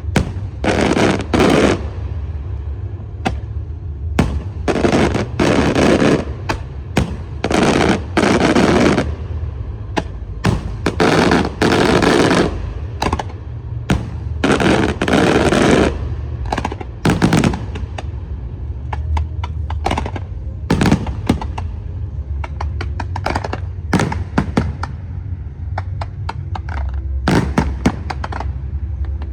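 Fireworks going off: a string of loud blasts, each lasting about a second. From about halfway through they give way to many short, sharp cracks in rapid runs.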